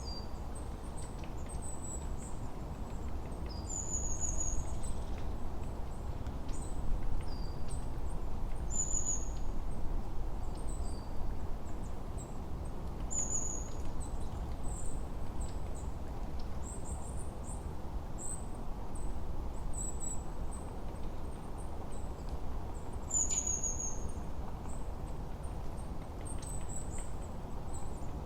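Layered forest ambience: small songbirds giving short, high-pitched chirps and quick downward whistled notes, one call returning about every four to five seconds, over a steady low rushing background.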